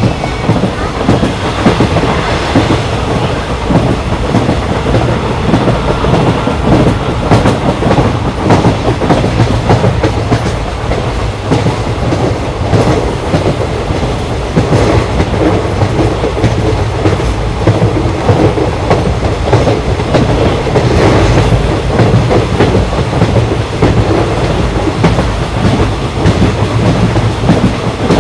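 Train running along the track: a steady rumble with the rhythmic clickety-clack of wheels over rail joints.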